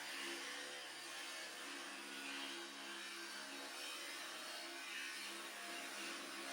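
Electric power tool running steadily while cutting steel sheet, a steady motor whine over a hissing cutting noise.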